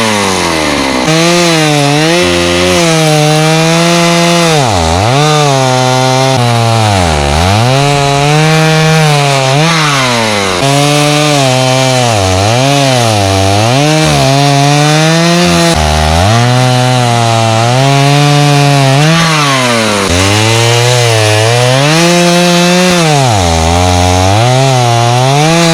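Stihl 029 two-stroke chainsaw cutting dry pine logs, its engine pitch sagging under load in each cut and climbing back to high revs, again and again. The chain is dull.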